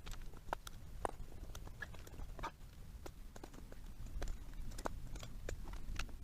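Irregular light clicks and taps, roughly two a second, from hand work on the motorcycle, over a low steady hum.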